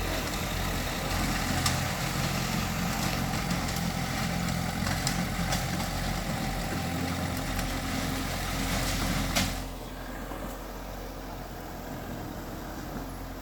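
Heavy bulldozer diesel engine running, with a few sharp metallic knocks. About three-quarters of the way in it drops sharply quieter and keeps running lower.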